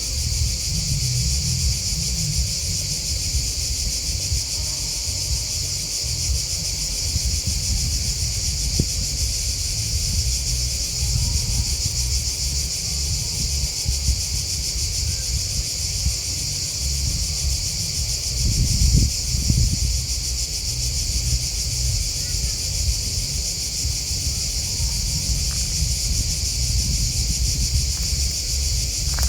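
Steady, unbroken high-pitched chirping chorus of grasshoppers and crickets, over a constant low rumble that swells briefly about two-thirds of the way through.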